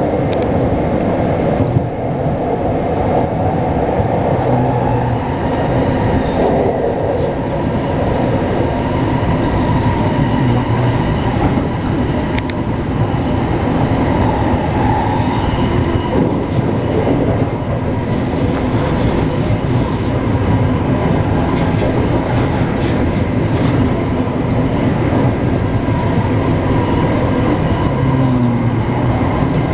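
Taipei Metro C381 train running steadily along the line, wheels and track giving a continuous rumble with some clatter. A brief high-pitched squeal comes about eighteen seconds in and lasts about two seconds.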